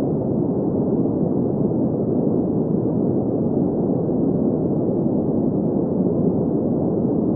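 Green noise: a steady, even hiss-like rush with its energy in the low-middle range, from about 100 Hz to 1 kHz, and nothing above about 2 kHz, unchanging throughout.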